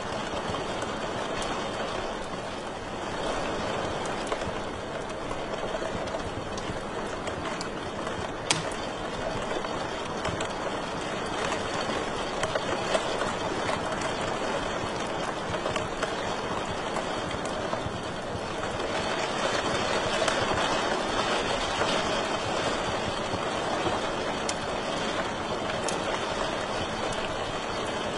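Wood fire burning in a fireplace: a steady hiss of flames with scattered small crackles and pops, one sharper pop about eight seconds in.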